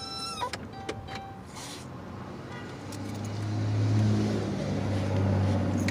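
Van engine and road noise heard from inside the cabin: a low drone that grows louder about three seconds in and then holds steady. A high, wavering whine cuts off just after the start.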